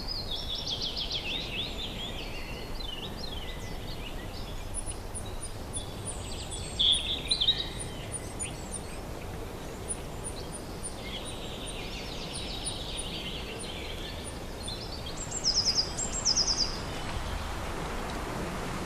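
Small birds chirping and trilling over a steady outdoor background hiss, with a long run of very high, evenly spaced ticks in the middle and two louder bursts of rapid notes, one near the middle and one later on.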